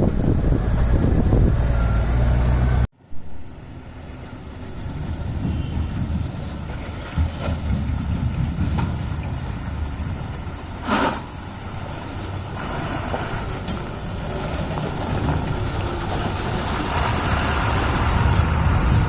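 Heavy diesel tipper trucks running on a road, loud and low for about three seconds until the sound cuts off suddenly. Quieter engine and road noise follows, with a short sharp hiss-like sound about eleven seconds in.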